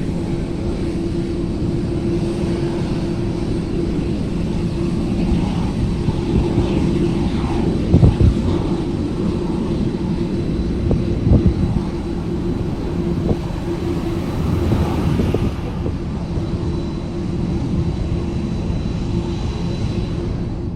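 Boeing 747-400 taxiing, its engines and airflow making a steady hum with a few short thumps, the loudest about eight seconds in.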